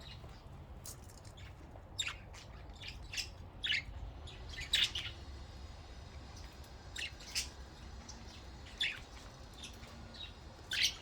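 Budgies chirping: short, scattered high-pitched calls, the loudest about five seconds in and just before the end.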